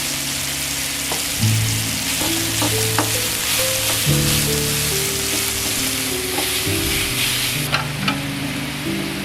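Food sizzling as it fries in a pan while being stirred, with a few sharp clicks of a utensil against the pan; the sizzle thins out near the end.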